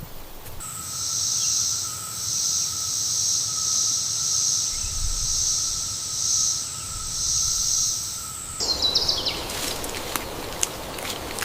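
Insects shrilling in a chorus, with a steady high whine and a hiss that swells about once a second, cutting off abruptly; after that, rustling and sharp clicks.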